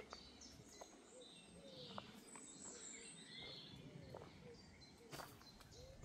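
Faint birds chirping in many short calls over a low, even background hiss, with a few soft clicks.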